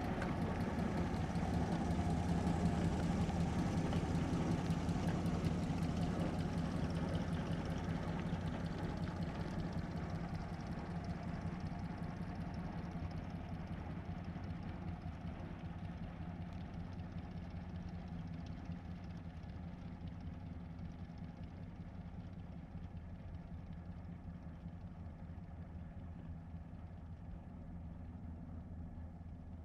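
1937 Plymouth's flathead six-cylinder engine running at low speed as the car drives slowly past. The sound is loudest a few seconds in, then fades away steadily as the car recedes.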